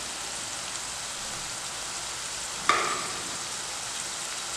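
Onion paste frying in hot oil in a pan, a steady sizzle, with one sharp click that rings briefly about two and a half seconds in.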